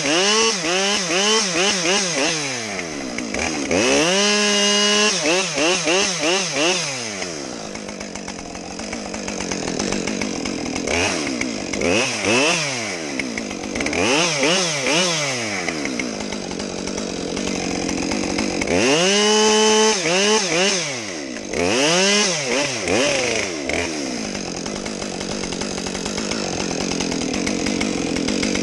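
50cc two-stroke chainsaw running at full throttle while cutting wood, its high whine repeatedly dipping and climbing back as the chain bites and clears, with quieter, lower-pitched stretches about a third of the way in and again near the end.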